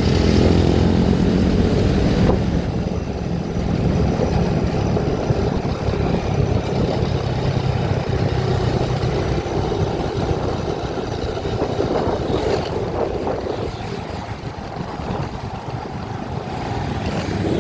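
A vehicle travelling along a road: steady engine, tyre and wind noise, dropping a little about three-quarters of the way through and building again near the end.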